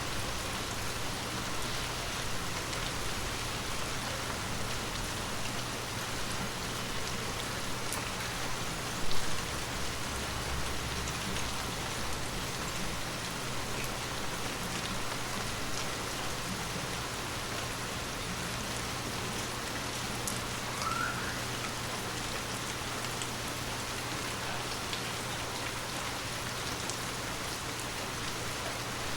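Heavy rain falling steadily, with scattered individual drops striking close by. There is one brief louder hit about nine seconds in.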